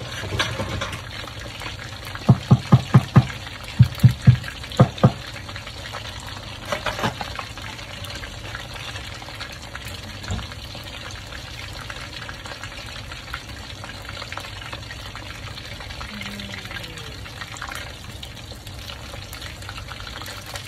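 Chicken wings deep-frying in a pan of hot oil, with a steady sizzle and bubbling. About two seconds in comes a quick run of loud, low thumps, about ten in two groups, and these are the loudest thing heard.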